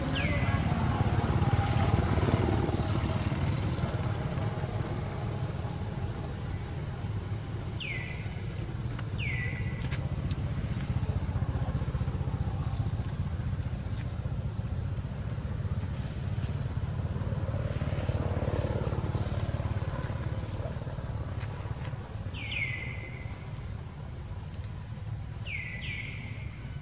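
Outdoor ambience: a steady low rumble throughout, with a bird giving short falling chirps, mostly in pairs, at the start, about eight seconds in, and twice near the end. A thin steady high whine comes and goes under it.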